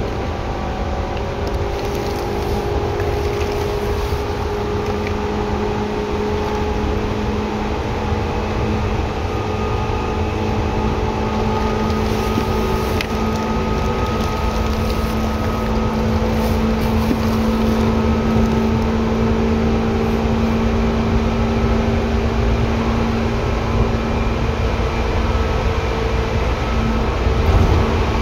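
Seibu 2000 series electric train running, heard from inside the car: a steady low rumble with a few held hum tones, growing gradually louder.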